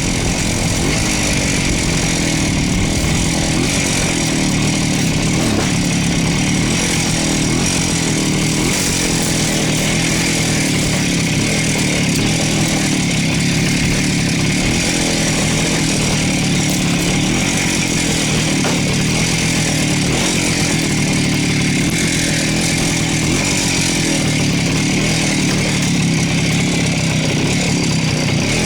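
Voskhod motorcycle's single-cylinder two-stroke engine running under way, its note holding steady with small rises and dips in pitch as the throttle changes.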